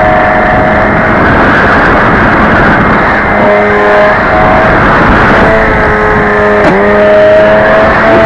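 Radio-controlled model plane's motor and propeller whining in flight, with its pitch shifting as the throttle changes and a sharp dip and rise about two thirds of the way through, over a loud steady rushing noise.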